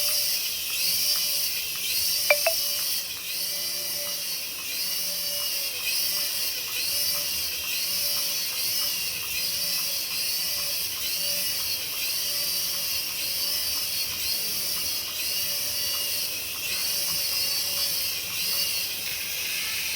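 A repeating electronic warbling tone, rising and falling about once a second over a steady hiss, with one sharp click about two seconds in.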